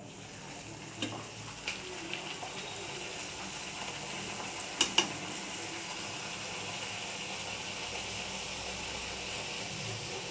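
Food sizzling as it fries in hot oil in a pan. There are a few light taps of a utensil against the pan in the first seconds, and two sharp clicks close together about halfway through.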